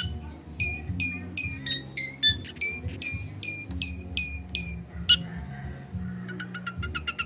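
Long-tailed shrike (cendet) singing over background music: a run of sharp, high, down-slurred notes repeated about two and a half times a second. After a single call, it breaks into a fast high chatter near the end.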